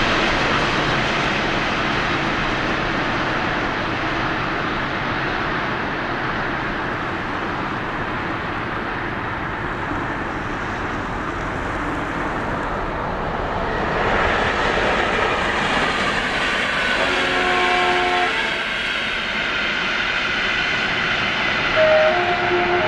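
Container freight train rolling along the rails, its noise easing off as it goes. Then a second train approaches, and its locomotive sounds a multi-tone horn for about a second and a half, then again briefly near the end.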